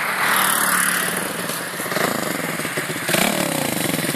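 Barton Fighter motorcycle with a Stomp YX140 single-cylinder four-stroke engine riding past at speed. The engine note rises and falls twice as it is revved and shifted through the pass.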